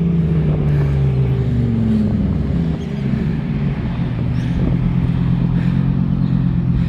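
A supercar engine runs loud, its pitch falling over the first couple of seconds as the revs drop, then holding a steady low note at low revs.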